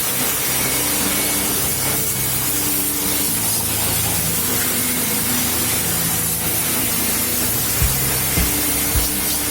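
High-pressure water spray hissing steadily, with background music playing under it; a regular drum beat comes in near the end.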